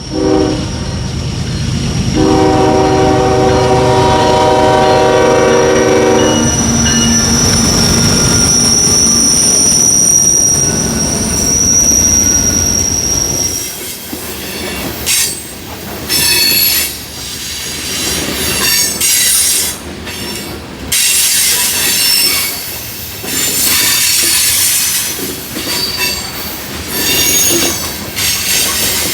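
A pair of GE diesel locomotives pulling a freight train upgrade: a short horn blast, then a long blast of the chime horn over the working engines. The cars then roll past with high-pitched wheel squeal and a rattle of cars on the rails.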